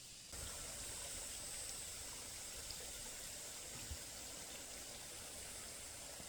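Faint, steady rushing outdoor background noise, stepping up a little in level just after the start, with a couple of small clicks.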